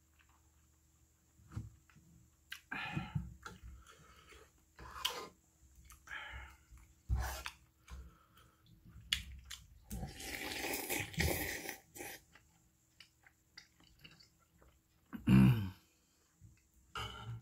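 Close-up chewing and wet mouth sounds of a person eating beef tripe and intestine soup, in short uneven bursts, with a longer noisy stretch around the middle and a loud slurp from the spoon near the end.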